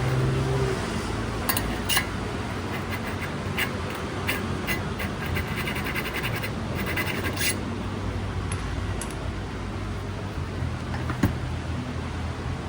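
Metal hand tools clicking and scraping, with a run of quick clicks in the middle, over a steady low hum.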